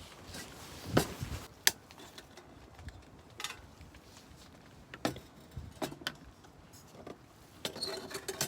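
Scattered light clicks, knocks and small rattles of things being handled, the sharpest about a second in, with a cluster of rattling near the end.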